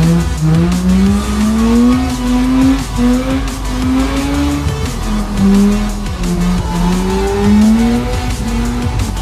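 Drift car's engine heard from inside the cabin, revving up and down over and over as the throttle is worked, with tyres squealing through a slide on a wet track.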